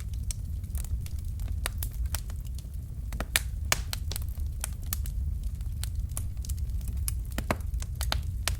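Fire crackling, with irregular sharp pops and snaps, a few louder than the rest, over a steady low rumble.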